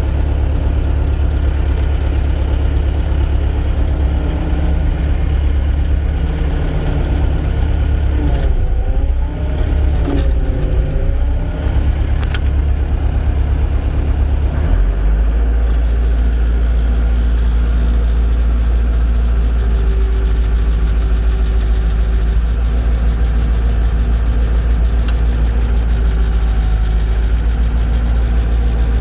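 Gehl 5625SX skid steer's diesel engine running, heard from the operator's seat, freshly started in extreme cold. A wavering tone rises and falls in the middle, and about halfway through the engine note steps down and settles into a steadier, deeper drone.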